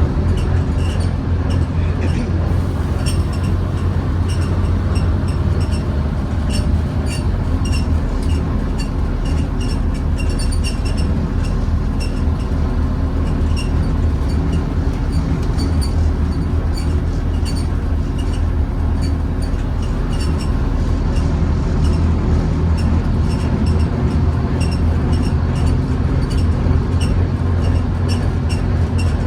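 Inside a Scania N230UD Omnicity double-decker bus under way: the diesel engine and drivetrain keep up a steady low drone, with frequent small rattles and ticks from the body and fittings.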